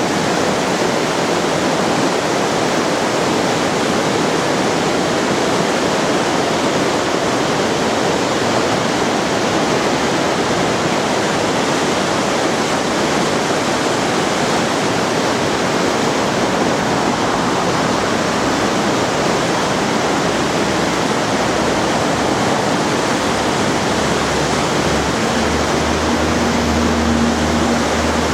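Waterfall pouring, a loud steady rush of water. A faint low hum comes in near the end.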